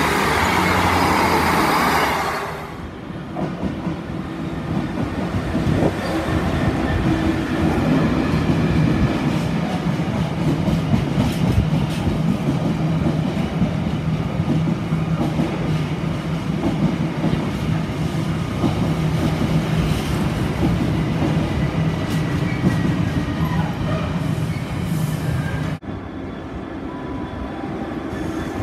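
Passenger trains running past a station platform: a long, steady rumble of wheels on rail with a humming engine note. About 26 s in it cuts sharply to a Freightliner Class 66 diesel locomotive running light, its engine running more quietly.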